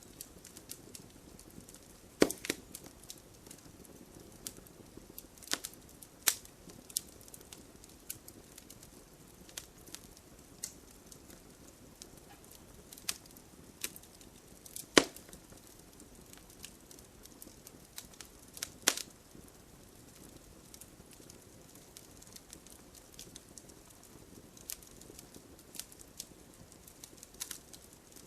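Wood fire burning in a fireplace: logs crackling with irregular sharp pops over a soft steady hiss of the flames, a few pops louder than the rest, about 2, 15 and 19 seconds in.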